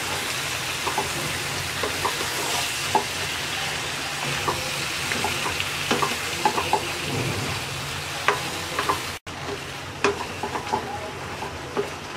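Bottle gourd pieces sizzling in hot oil and spice paste in a wok, with a spatula stirring and scraping through them in irregular clicks and knocks over a steady hiss.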